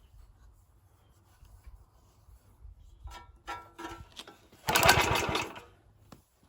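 A pull on the recoil starter of a stone-cold Suffolk Iron Foundry small engine: after a few metallic clinks and rattles, one quick pull about a second long cranks the engine over without it firing. The owner notes it has little compression.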